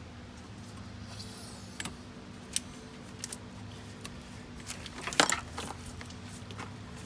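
Scattered light clicks and knocks of tools and parts being handled during engine work, the loudest cluster a little past five seconds in, over a steady low hum.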